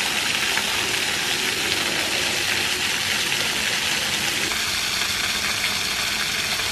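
Small waterfall running at low flow: a steady rush of falling water.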